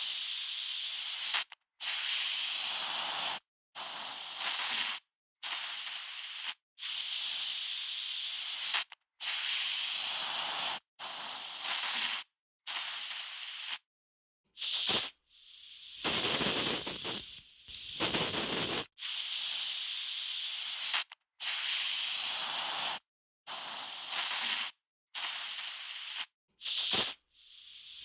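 Aerosol spray can spraying in a long run of short bursts, each half a second to two seconds of hiss, with brief silences between them.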